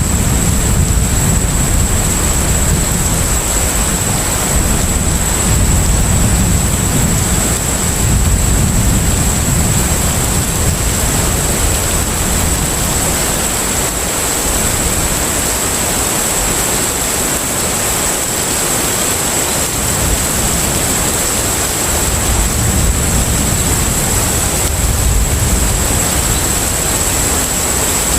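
Container ship at sea: a steady low rumble that swells and eases under an even hiss, with a thin, steady high whine.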